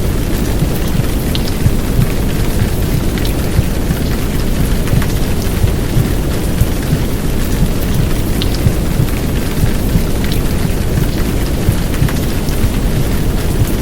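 A heavy downpour of rain with scattered drop ticks, layered over a deep, muffled womb-sound rumble. Together they make a steady, dense wash of noise for soothing a baby to sleep.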